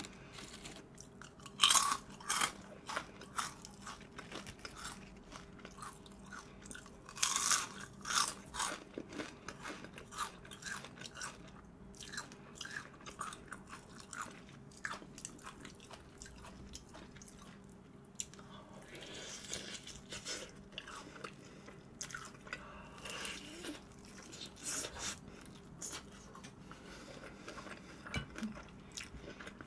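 A person biting and chewing crunchy fried food close to the microphone, in irregular bursts of crackling crunches, loudest about two seconds in and again around seven to eight seconds in.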